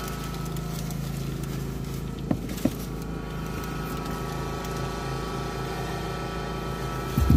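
Steady low hum of a car's idling engine heard inside the cabin. Two short clicks come a little over two seconds in, and a low thump comes near the end.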